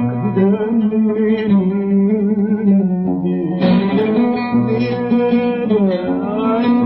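A man singing a long, wavering melismatic vowel in Egyptian tarab style, with plucked oud accompaniment.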